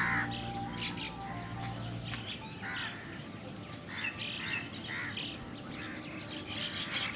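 Birds chirping in short, scattered calls that thicken into busy chattering near the end, with steady backing music ending about two seconds in.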